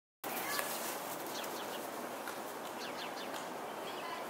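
Birds chirping, short falling notes coming in quick clusters, over a steady outdoor background hiss.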